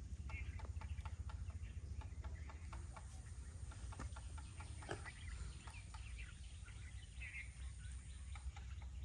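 Outdoor ambience: faint bird calls, twice, over a low steady rumble and scattered small clicks.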